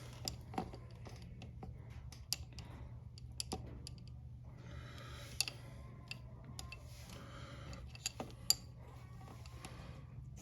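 Scattered light metallic clicks and taps of a motorcycle chain press tool and chain link being handled, with two short spells of soft scraping, over a steady low hum.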